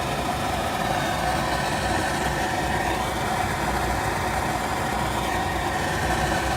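Goodman gas pack package unit running with its burners lit: a steady hum with a constant whine from the draft inducer blowing exhaust out of the flue.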